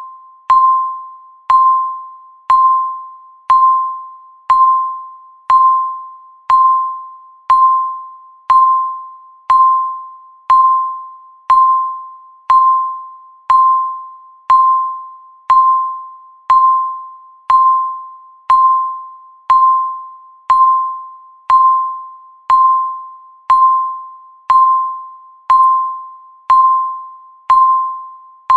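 Countdown timer's electronic tick: a short, bell-like ding repeating steadily about once a second, each stroke fading away before the next.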